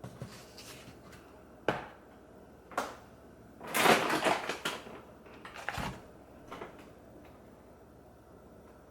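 Kitchen handling sounds of items being taken out and set down: two sharp knocks about two and three seconds in, then a louder crinkling rustle of packaging lasting about a second, followed by a few lighter knocks.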